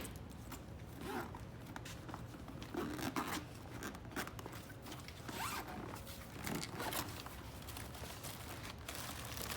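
A zipper on a soft medical gear bag being worked open, in a series of short scratchy strokes.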